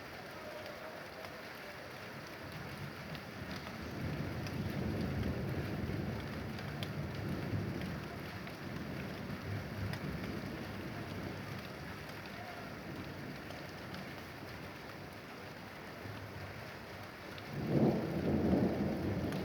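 Thunderstorm: rain falling steadily, with thunder rumbling in from about four seconds in and a louder thunder rumble near the end.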